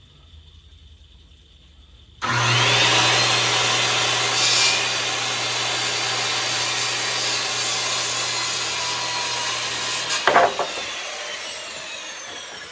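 Electric circular saw starting about two seconds in and cutting through a wooden board for about eight seconds with a steady motor hum and a loud rasping cut. The trigger is released about ten seconds in, and a couple of sharp knocks follow as the blade winds down with a falling whine.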